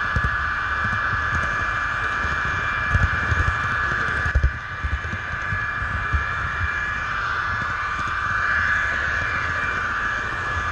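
HO-scale model train running on its track, heard from a camera riding on board: a steady high motor whine with irregular low knocks from the wheels on the rails.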